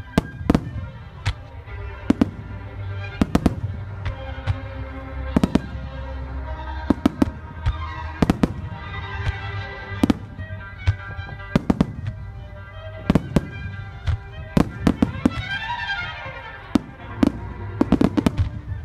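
Aerial firework shells bursting in quick, uneven succession, dozens of sharp bangs, some in tight clusters, over accompanying music with sustained notes.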